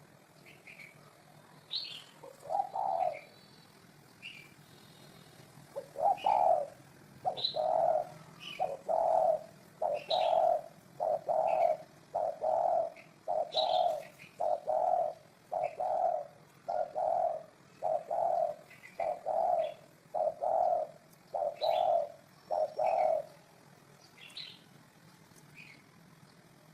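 Spotted dove cooing: one low coo a few seconds in, then a long, even run of low coos at about one a second, which stops a few seconds before the end. Small birds chirp high and thin above it throughout.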